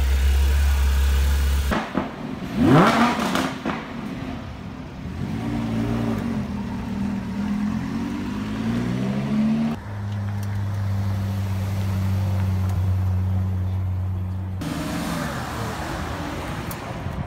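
Sports-car engines idling and revving. A sharp rev rises and falls about two seconds in, engine notes climb as a car pulls away, then an engine idles steadily, and another rev comes near the end.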